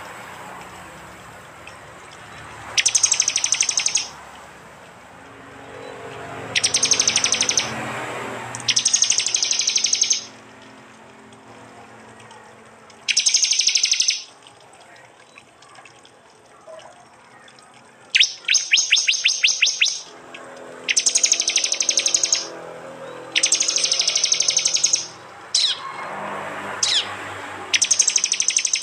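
Prinias (prenjak) giving loud, rapid, dry trilled bursts, the 'tembakan' call. Each burst lasts about a second and they repeat about ten times with short pauses between them. One burst a little past the middle is slower, with clearly separate strokes. A faint low background murmur runs underneath.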